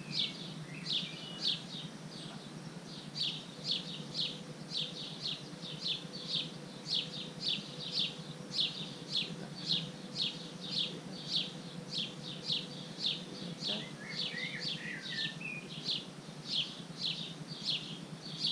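High chirps in quick clusters, repeated evenly about two to three times a second, from a small bird calling over and over, with a few other brief gliding notes about three-quarters of the way through.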